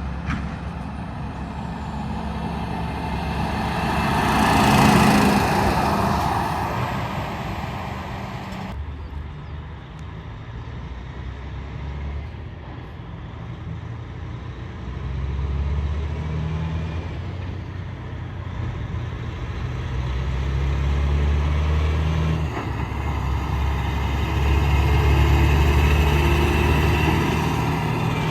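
Heavy trucks on the road. One passes close, loudest about five seconds in. Later a truck's diesel engine pulls hard, its note climbing and dropping back several times as it works through the gears.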